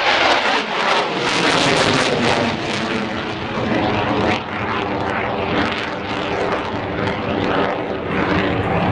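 Jet noise from a Eurofighter Typhoon's twin turbofan engines as it flies its display: a loud, steady roar whose deep rumble fills in about a second in and then holds.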